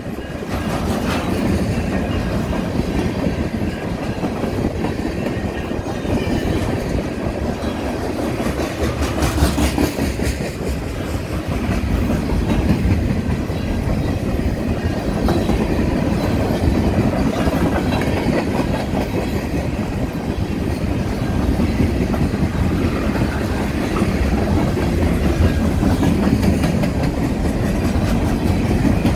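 Freight cars of a passing train (centerbeam flatcars and boxcars) rolling by at steady speed, their steel wheels clacking over the rail joints above a continuous rumble.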